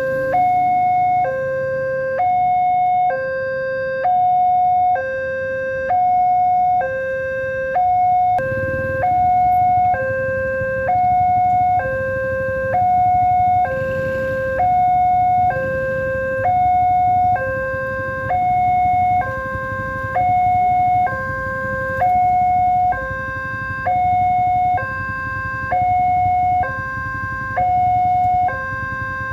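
Level-crossing warning alarm sounding a steady two-tone hi-lo signal, switching between a lower and a higher tone about once a second. It means the crossing barrier is closing or closed for an approaching train. A low rumble joins it about a third of the way in.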